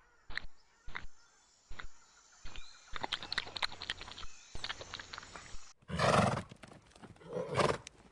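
A horse: a run of sharp hoof clops, growing busier about three seconds in, then two loud, rough calls about a second apart near the end.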